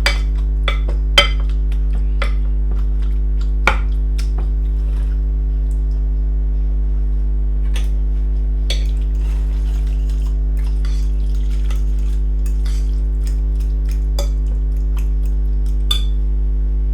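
A utensil clinking and knocking against a bowl every second or so while boiled pumpkin is mashed, over a loud steady low hum.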